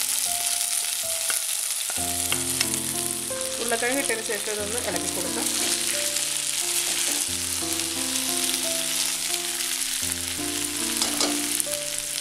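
Boiled potato cubes sizzling in hot coconut oil in an iron kadai as a spatula turns them, with a few clicks of the spatula against the pan.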